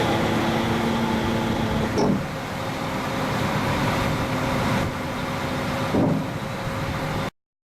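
Engine of a DUX ET-24 ejector haul truck running steadily, with two brief louder surges about two and six seconds in. The sound cuts off abruptly near the end.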